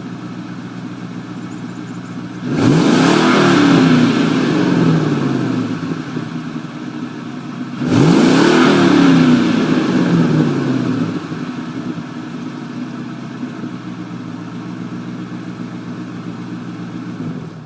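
Stock exhaust of a 2002 Ford Mustang GT's 4.6-litre V8, idling steadily and blipped twice. Each rev climbs quickly, then falls back to idle over a few seconds.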